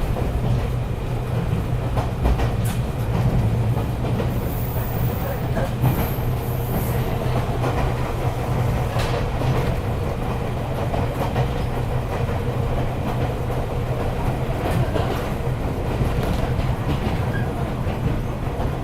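A Matsumoto Electric Railway Kamikochi Line electric train running, heard from inside the car. There is a steady rumble and hum of the running gear, with occasional clacks as the wheels cross rail joints.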